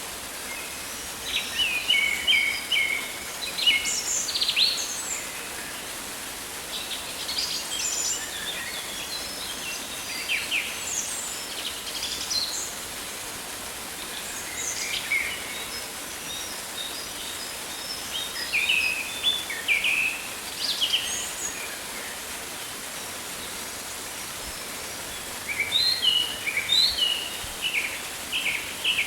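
Rainforest ambience: a steady hiss of background noise with many birds chirping and trilling in bursts, busiest near the start, around the middle and near the end.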